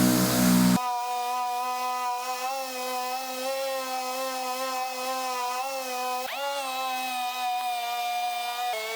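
Power sander running steadily while sanding primer off a quarter panel down to bare metal. It starts abruptly just under a second in, its pitch dips briefly and recovers about six seconds in, then settles slightly lower near the end.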